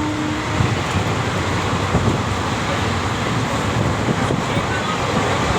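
Steady, loud rumble and rushing noise of a moving passenger train.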